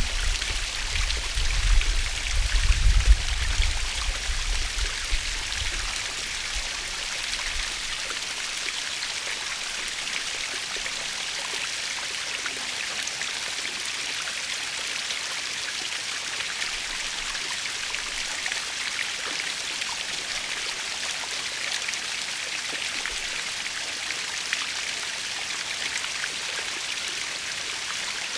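Waterfall splashing and rushing steadily, an even hiss of falling water. For the first six seconds or so an uneven low rumble sits under it, then fades out.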